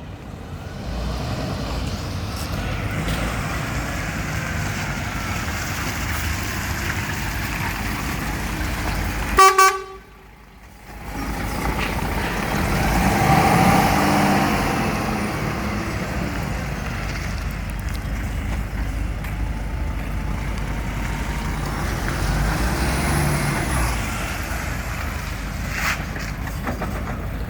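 DAF XF 480 tractor unit's six-cylinder diesel engine running steadily at idle, with a short horn blast about nine seconds in, after which the sound drops away for a moment before the engine noise returns and swells louder for a few seconds.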